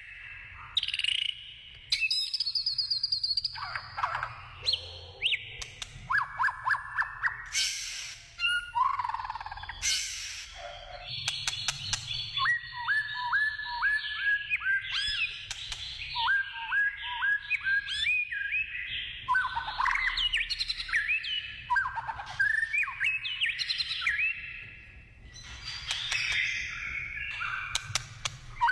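White-rumped shama singing: a long, varied song of whistled phrases, with fast runs of repeated notes, sliding whistles and sharp clicks between phrases.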